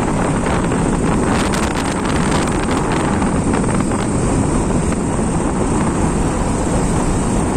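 Motorcycle riding at speed: steady engine and road noise under heavy wind buffeting on the microphone, with a few light knocks in the first couple of seconds.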